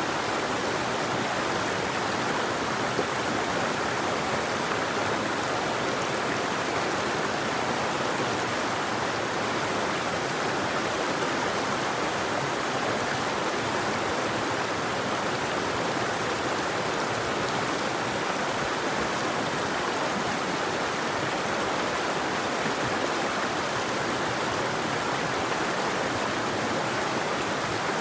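River water flowing steadily over rocks, an even rushing noise with no birdsong and no single splashes standing out.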